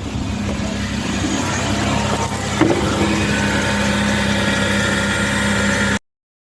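Car engine idling steadily, with a brief click in the middle; the sound cuts off abruptly about six seconds in.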